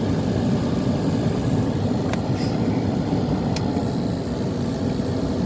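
Amana 8,600 BTU window air conditioner running on high cool: a steady rush from its blower fan with the compressor running, very quiet. Two faint ticks sound about two seconds in and again about a second and a half later.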